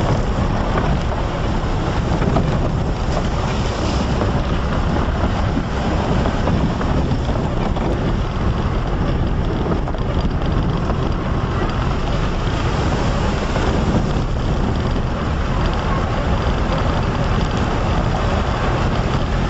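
Steady noise of a vehicle driving, with wind buffeting the microphone.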